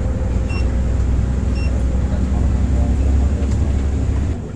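Volvo B8R bus engine rumbling steadily, heard from inside the cabin, with a short electronic beep about once a second early on; the engine sound drops off suddenly about four seconds in.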